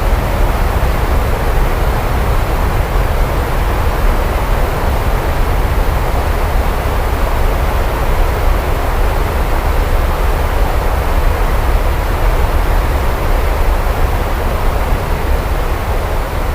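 Steady heavy rain, an even hiss with a constant deep low rumble beneath it and no single claps or drops standing out.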